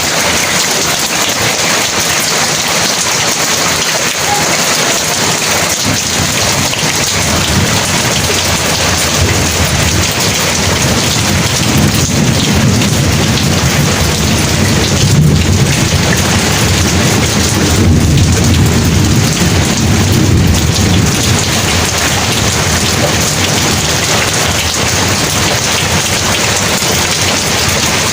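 Heavy rain pouring steadily, with a long low rumble of thunder that builds about a third of the way in, swells twice, and fades out past the middle.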